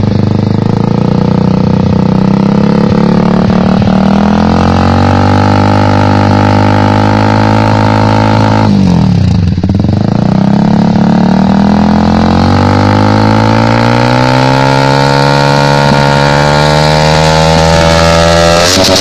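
Honda CBR sport motorcycle with an X-Speed stainless racing exhaust, running under way with the revs slowly climbing. The revs dip sharply and pick up again about nine seconds in, then climb steadily once more.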